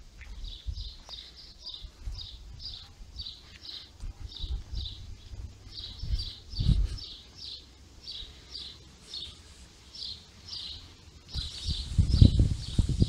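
A small bird chirping over and over, about three short high chirps a second, with low rumbling on the microphone that grows loudest near the end.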